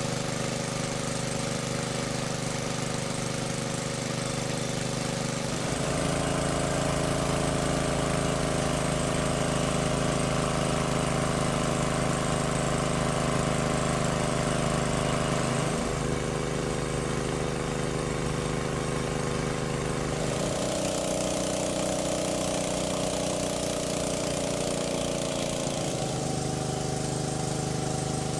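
A small engine running steadily. Its note shifts in pitch and loudness a few times: up at about six seconds in, and changing again near twenty and twenty-six seconds.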